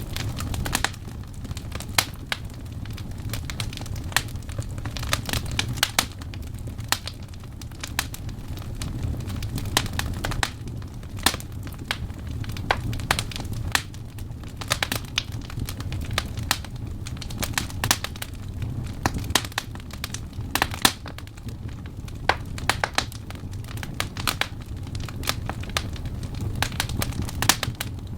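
Wood fire burning with a steady low rumble and frequent irregular sharp crackles and pops from the logs.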